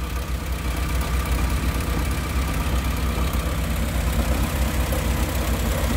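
1971 Morris Minor 1000 van's four-cylinder BMC A-series engine idling steadily, with an even low pulse.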